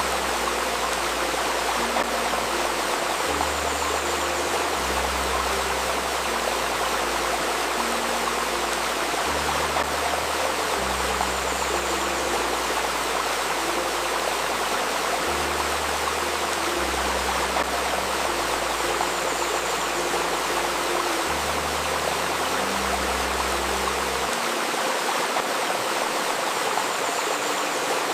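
A river babbling steadily over stones, under soft, low sustained synth notes that shift pitch every second or two. This is the layer billed as 528 Hz healing music.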